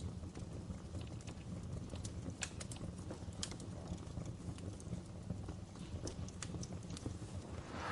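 Wood fire burning in a fireplace: irregular sharp crackles and pops over a steady low rumble, with a louder crackle near the end.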